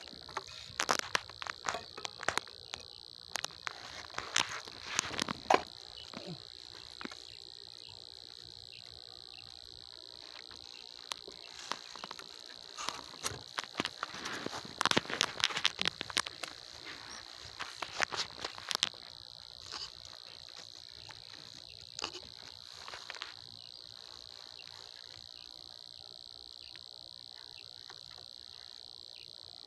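Steady, high insect chirring, typical of crickets, runs throughout. Scattered sharp knocks and scrapes are heard over the first two-thirds, with a couple more a little later, then stop.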